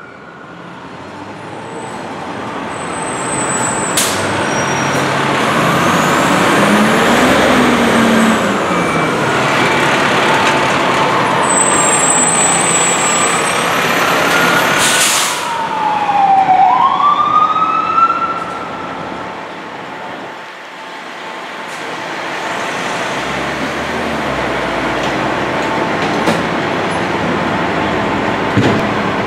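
Fire trucks running with sirens, their heavy engines rising to a peak in the middle. About fifteen seconds in there is a short loud burst, then a siren wail drops in pitch and sweeps back up. After a dip around two-thirds of the way through, engine noise builds again.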